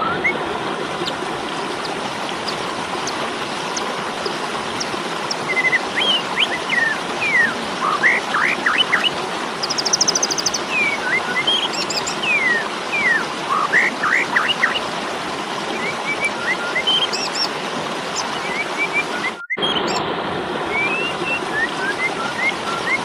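Asian pied starling (jalak suren) giving its fighting calls: scattered sharp chirps, short whistles and rising and falling notes, with a fast trill about ten seconds in, over a steady hiss. The sound drops out for a moment a little before the twentieth second.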